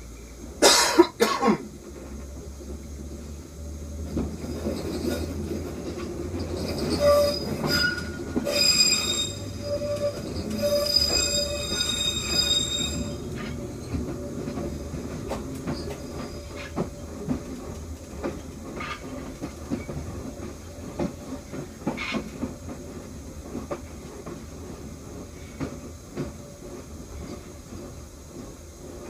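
Metro train rolling slowly through depot switches, with a steady rumble and wheels clacking over the rail joints and points. There are two loud knocks about a second in, and the wheels squeal from about seven to thirteen seconds in as the train takes the curved turnouts.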